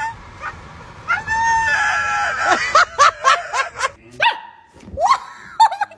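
A dog barking: one long drawn-out call about a second in, then a quick run of short barks and a few more barks near the end.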